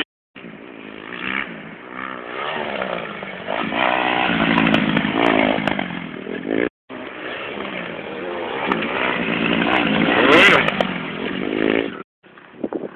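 Motocross dirt bike engines revving, pitch climbing and falling repeatedly as the bikes accelerate and shift. The sound drops out completely for a moment twice, and the loudest rise comes about ten seconds in.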